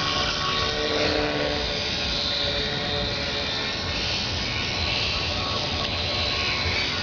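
Scratch-built micro airboat's small motor and air propeller running steadily, a continuous buzzing whir.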